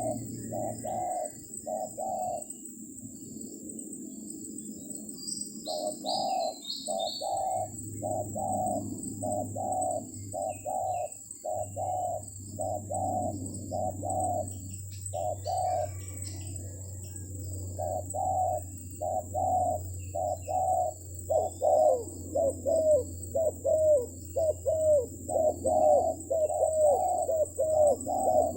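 Spotted doves cooing in a long series of short coo notes, about two a second, pausing for a couple of seconds near the start. A small bird chirps briefly and high above them a few times.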